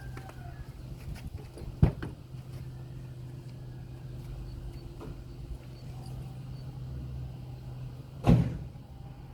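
Car engine idling with a steady low hum, and two sharp thumps about six seconds apart, car doors shutting.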